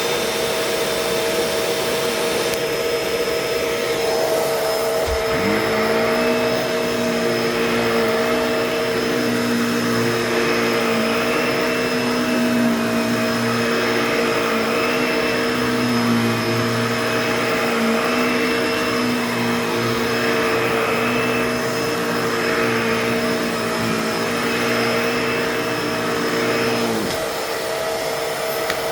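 Bissell Pet Hair Eraser Turbo upright vacuum cleaner running steadily, its motor whine over a rush of suction air. A click about five seconds in brings in a second, lower hum, which stops again about two seconds before the end.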